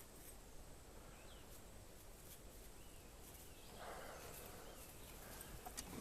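Faint outdoor ambience with a few soft bird chirps, and a brief rustle about four seconds in.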